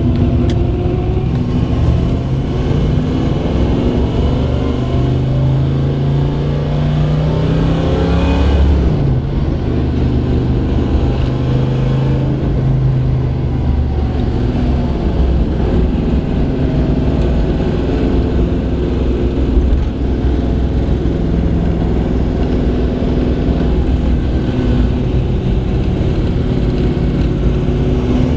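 1970 Chevelle's V8 engine, fed by a newly fitted Holley Terminator EFI, pulling the car along the road, heard from inside the cabin. The engine note climbs for several seconds and drops sharply about nine seconds in at an upshift, then runs on steadily with small rises and falls.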